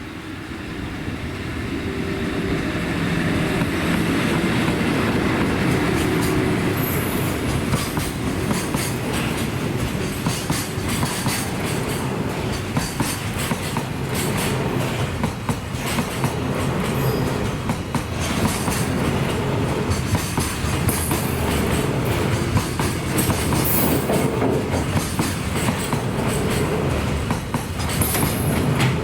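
Freight train hauled by an EF81 electric locomotive rolling by, its wheels clattering over rail joints with brief high wheel squeals. The sound builds over the first few seconds and then holds steady.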